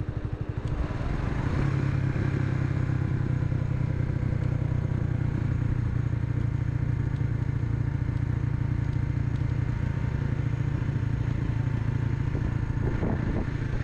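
Restored SYM Wolf 125 (Yeh Wang) motorcycle's single-cylinder four-stroke engine running. About a second in it picks up to a higher, steady speed and holds there.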